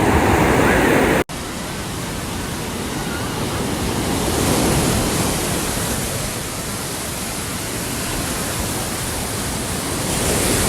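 Ocean surf washing on a beach with wind buffeting the microphone: a steady rushing hiss that swells about four seconds in and again near the end. An edit cut with a brief dropout comes about a second in.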